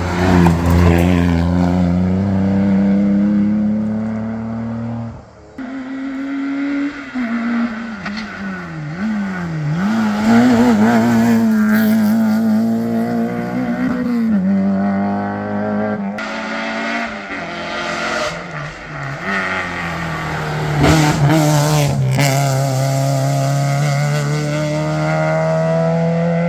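Modern rally cars at full throttle, one after another. Their engines rev up and fall back again and again through gear changes and lifts for corners.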